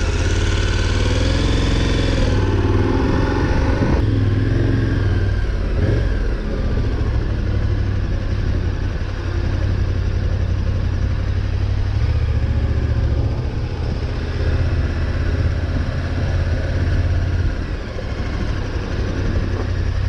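Motorcycle engine running as the bike pulls away and rides on, its pitch shifting over the first few seconds and then settling, over a heavy low rumble.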